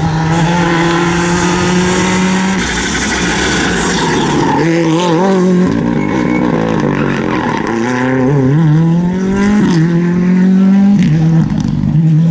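Rally car engine running hard, its pitch wavering, climbing and dropping through several gear changes.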